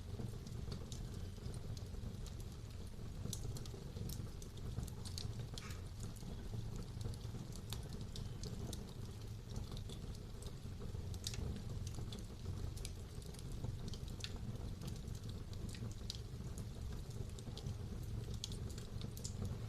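Wood fire burning in a fireplace: a steady low rumble of the flames with irregular small crackles and pops from the burning wood.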